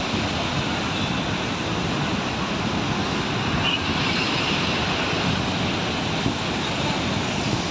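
Steady, loud rush of fast-flowing floodwater, a swollen torrent.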